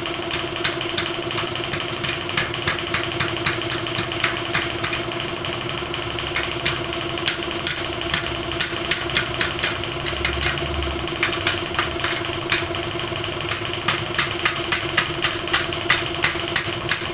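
A motor running steadily with a constant hum, overlaid by sharp ticks or taps coming roughly two to three times a second.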